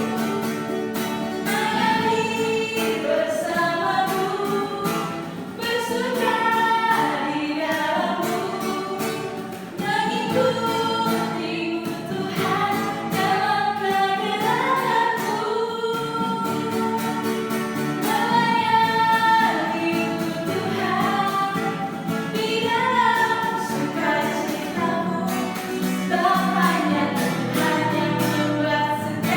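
A Christian children's worship song: voices singing a melody over instrumental accompaniment.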